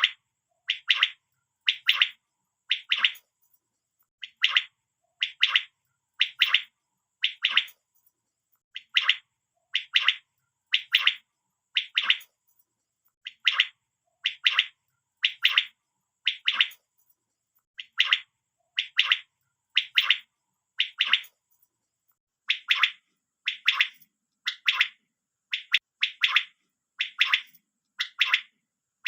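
Common quail calling over and over, a short call about once a second in runs of about four with brief pauses between runs.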